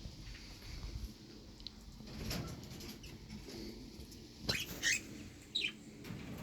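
Pet bird chirping: three short, sharp calls about four and a half seconds in, the last one falling in pitch, over light rustling.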